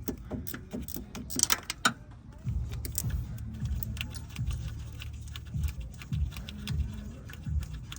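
Hand ratchet clicking as a loosened alternator bolt is backed out, with metallic tool clicks and knocks. A low rumbling starts about two and a half seconds in.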